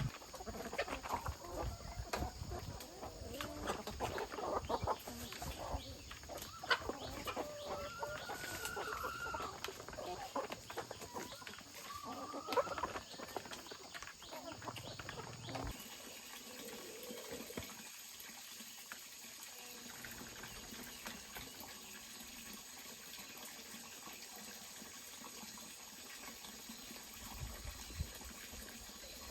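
Chickens clucking with short calls, mixed with light clicks and rustles; the sounds thin out about halfway through, leaving a quieter steady background.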